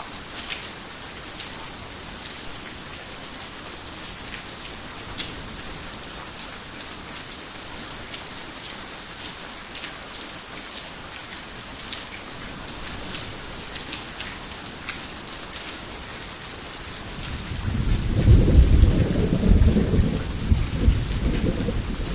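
Heavy rain falling steadily, with scattered sharp drops ticking through the hiss. About three-quarters of the way through, a long low rumble of thunder rolls in and becomes the loudest sound, still rumbling at the end.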